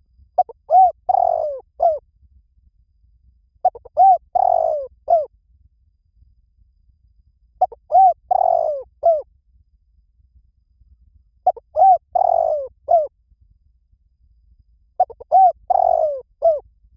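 Spotted dove calling: a short cooing phrase of several notes, repeated five times about every four seconds.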